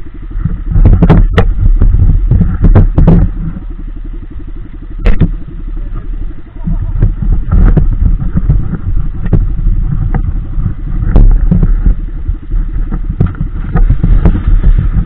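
Four-stroke single-cylinder dirt bike engine running at low speed, close to the microphone, with several sharp knocks in the first few seconds and another about five seconds in as the bike moves over rough, wet ground.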